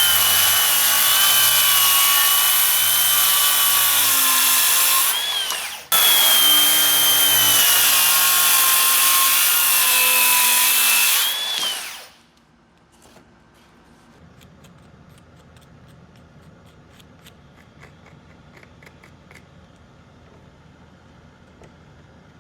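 Electric power tool motor running at full speed with a steady high whine for about five seconds, winding down, then starting again for another five seconds before spinning down. After that come faint, scattered light clicks and taps of hand work.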